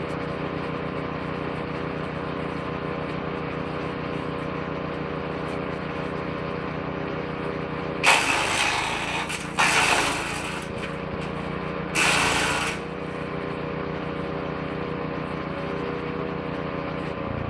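Petrol-engined woodchipper shredder running steadily. Three loud bursts of shredding, each about a second long, come in the second half as material is fed into the shredder drum, and the engine dips slightly under the load.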